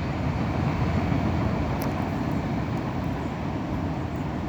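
Steady low rumble of a long freight train's cars rolling along the rails, with a couple of faint clicks about two seconds in.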